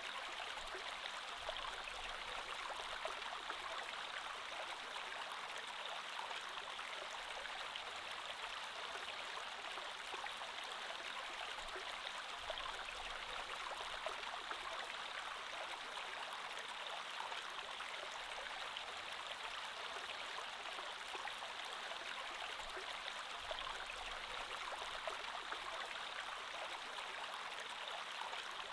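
Creek water flowing steadily over rocks, a continuous even rush with fine babbling detail.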